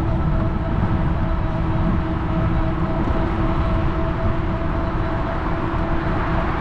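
Riding noise from a fat-tire electric bike: steady wind rumble on the handlebar-mounted microphone, with tyre hum and a steady whine from the bike.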